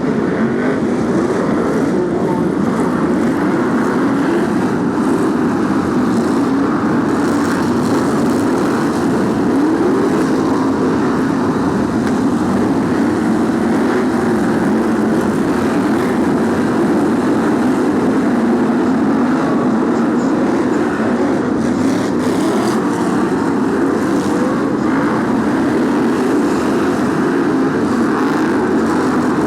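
A field of BriSCA F1 stock cars' V8 engines running together: a loud, steady drone in which individual engine notes rise and fall as they rev.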